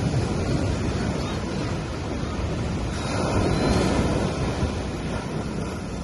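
Small sea waves washing onto a sandy beach, a steady surf wash that swells about three seconds in, with some wind on the microphone.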